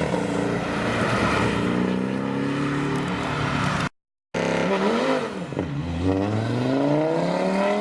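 Sports car engines accelerating hard, the pitch climbing steadily as they pull away. A short dead gap about four seconds in, then another engine blips up, drops back and climbs again under acceleration.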